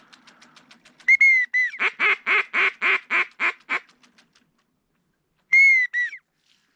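Pintail ducks calling close by: two short arched whistle notes, then a run of about eight quacks, and near the end two more whistles.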